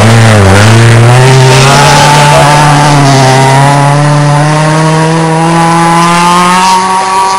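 Rally car engine at full throttle on a gravel stage, revs dipping briefly about half a second in and then climbing steadily in one long pull, cutting off near the end.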